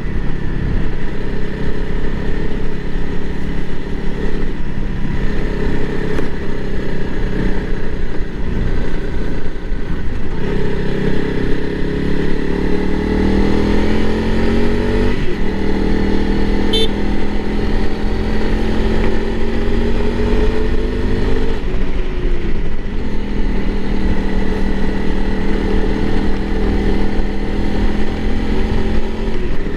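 Honda CRF300L Rally's fuel-injected single-cylinder engine running under way on the road, with wind noise. About a third of the way in it rises in pitch as the bike accelerates, then drops sharply at a gear change. It holds steady after that and eases off again past the middle.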